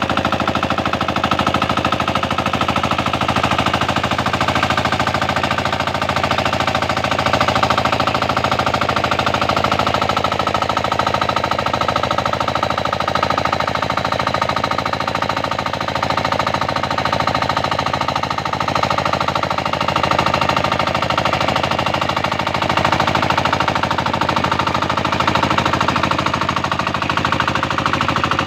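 Tractor engine running steadily with a rapid, even pulsing beat.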